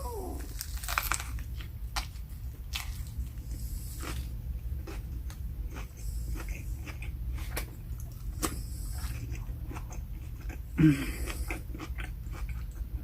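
Close-up chewing and crunching of a Subway sandwich, with many small wet clicks of the mouth over a steady low hum. A brief, louder low sound comes about eleven seconds in.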